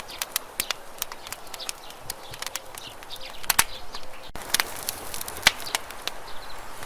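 Wood campfire crackling, with frequent sharp, irregular pops and snaps over a steady hiss of burning.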